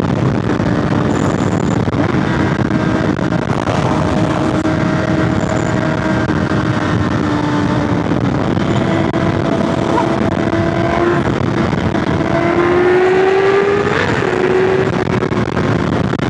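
Motorcycle engine running steadily under way, with wind rushing over the microphone; the engine note climbs a little about three-quarters of the way through, then settles.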